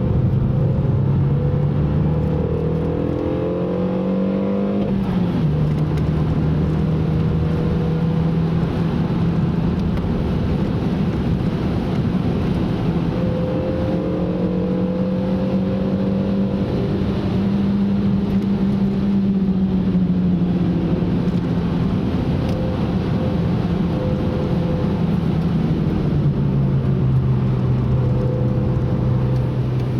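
Car engine under way on a race track, its note climbing as it pulls through a gear and dropping sharply when the driver shifts or lifts, about five seconds in and again in the second half, over a steady rushing road and wind noise.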